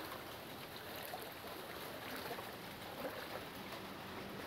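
Faint steady hiss of rain and water.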